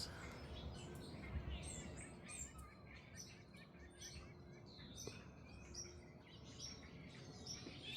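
Many small birds chirping and calling at once, a dense run of short, quick chirps.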